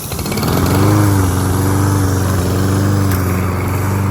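Pull-start gas lawn mower engine catching after a pull of the starter cord, its pitch rising over about the first second as it comes up to speed, then running steadily.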